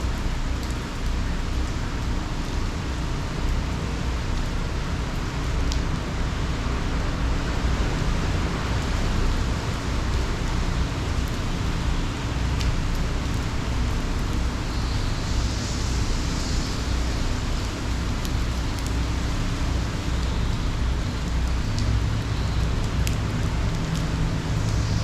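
Hurricane rain and wind: a steady rushing hiss over a low rumble, with scattered faint drop ticks.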